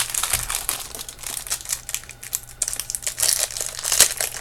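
Small plastic jewelry packaging bag crinkling and crackling as it is handled and opened, in quick irregular rustles with a sharper crackle near the end.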